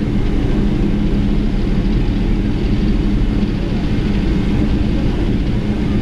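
Steady flight-deck noise of a Boeing 747-400 under takeoff thrust in its climb-out: a dense rumble of airflow and engines, with a constant low hum.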